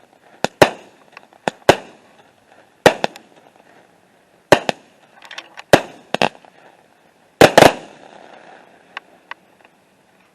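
A Phantom Fireworks 'Red, White & Boom' 200-gram 16-shot aerial repeater cake firing shot after shot: sharp bangs, often in quick pairs, about one every second or so. The loudest cluster of bangs comes about seven and a half seconds in, followed by two small pops near the end.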